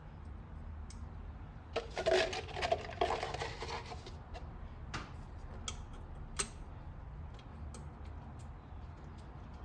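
Small metal parts clinking and rattling against each other for about two seconds, then a few scattered light metallic clicks: hand tools and hardware being handled during engine reassembly.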